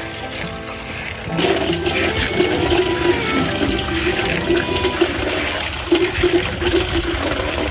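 Rushing, splashing water that starts suddenly about a second and a half in and keeps going, over background music.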